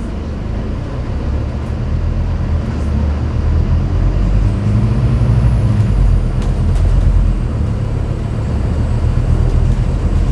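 Scania N250UD double-decker bus's diesel engine running with road noise, heard from the top deck. It grows louder over the first five seconds, eases briefly around eight seconds and builds again.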